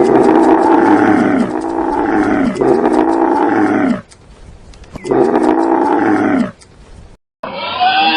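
An animal's long, loud calls: four of them, each about a second or more, sliding down in pitch, with a short pause before the last.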